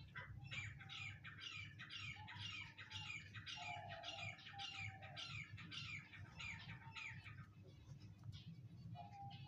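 Francolin (teetar) calling: a fast run of repeated harsh high notes, about two or three a second, that stops about three quarters of the way through, with a lower whistled tone coming and going beneath it.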